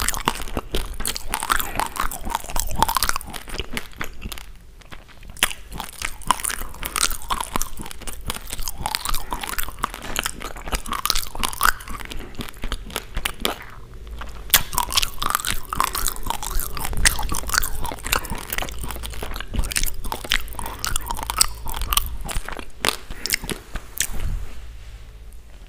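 Raw basmati rice being chewed close to the microphone: a dense, steady crackle of hard grains cracking between the teeth, with a couple of short breaks. It thins out near the end.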